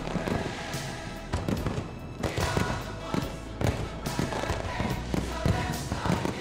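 Fireworks going off in repeated bangs over loud music.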